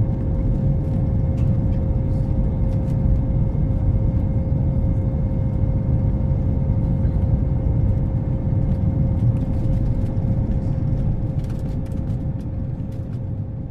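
Airliner cabin noise: a steady low rumble with a constant mid-pitched hum, easing slightly at the very end.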